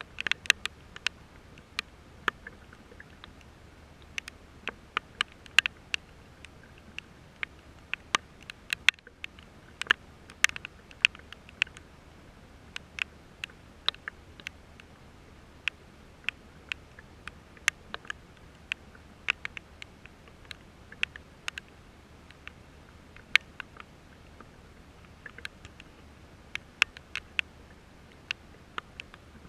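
Raindrops striking something close to the microphone: sharp, irregular taps, several a second, over a faint steady hiss of rain.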